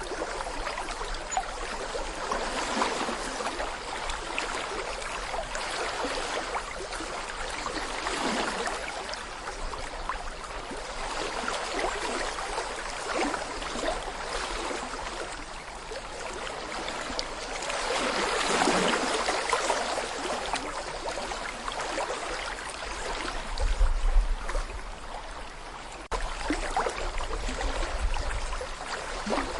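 Small babbling brook: shallow water flowing and burbling over stones, swelling and easing every few seconds. A low rumble joins it briefly about three-quarters of the way through and again near the end.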